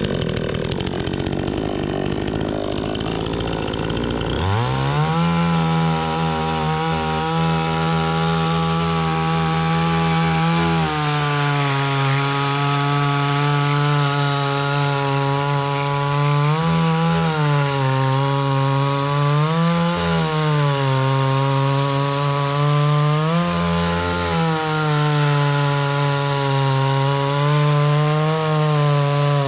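Two-stroke chainsaw engine running at high revs with a steady high whine, settling in about four seconds in after a rougher start. Its pitch dips and recovers briefly a few times under load as it cuts wood.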